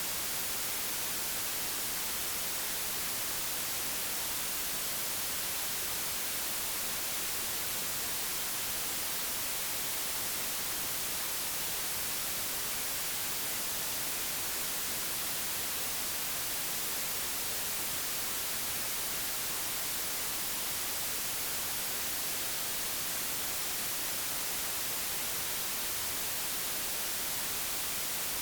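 Digitally generated white noise: an even, unchanging hiss with no events in it.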